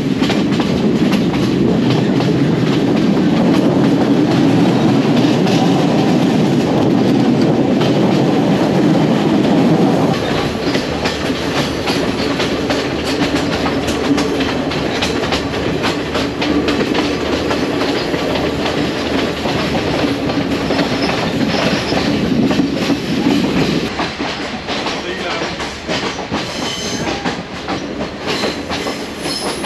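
Passenger train running along the track, with the wheels clattering over the rails and the carriages rumbling, heard loud at an open door or window. About 24 seconds in the sound turns quieter and thinner, as heard from inside the carriage.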